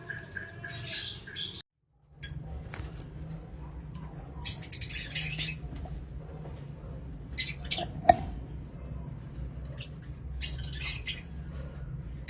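Lovebird giving short, harsh shrieking chatter in three bursts, with a sharp click about eight seconds in, over a steady low hum.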